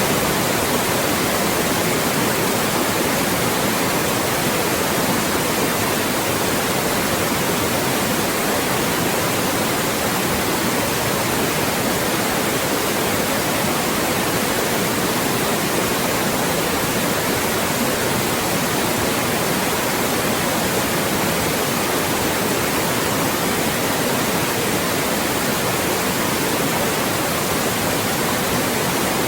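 Loud, steady white noise: an even hiss spread across all pitches, unchanging throughout.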